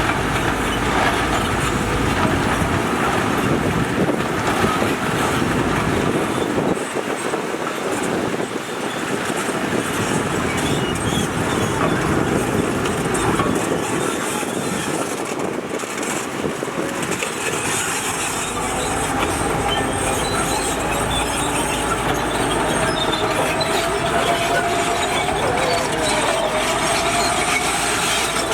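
Heavy tracked earthmoving machinery working: a diesel engine running under load with steady metallic clanking and squealing from steel tracks. About two-thirds of the way in, a wavering whine joins it.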